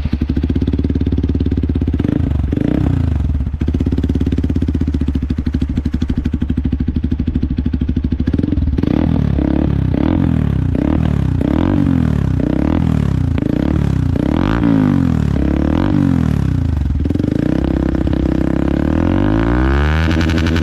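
Hero XPulse 200 4V's single-cylinder engine running through a Devil Evolution aftermarket exhaust. It idles, is revved once early on, then takes a string of quick throttle blips about once a second, and near the end holds a higher steady rev before climbing again.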